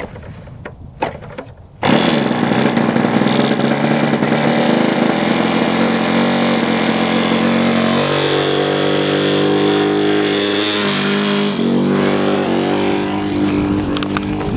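A few clicks, then a small control-line model aircraft engine starts abruptly about two seconds in and runs steadily at high speed, its tone shifting a little past the middle: the engine is being run in.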